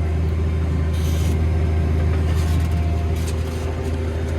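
Tractor engine running steadily while pulling a seed drill: a constant low drone.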